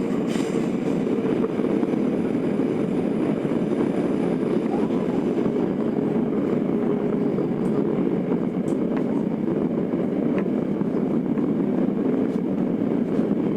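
Steady running noise heard inside a Tokyo Metro 02 series subway car (IGBT-inverter set) on the Marunouchi Line, running at speed between stations with a constant low rumble.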